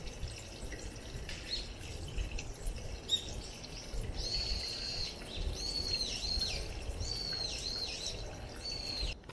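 A songbird singing: a few short chirps, then from about four seconds in a run of whistled phrases, each a held high note that drops away at its end. Under it, water runs from a bronze komainu's spout into a stone basin, over a low rumble.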